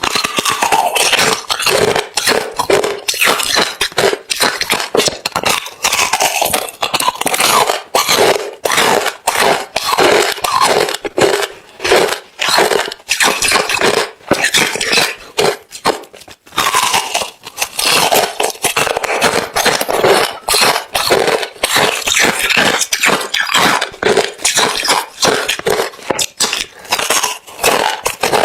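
Close-miked chewing of hard refrozen crushed ice: a dense, continuous run of loud crunches and cracks, with a couple of brief pauses.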